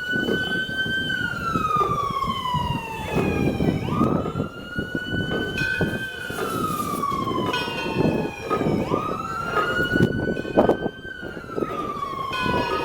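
A siren wailing in three long cycles. Each one climbs quickly to a high pitch, holds briefly, then slides slowly down, and the next begins about every four seconds.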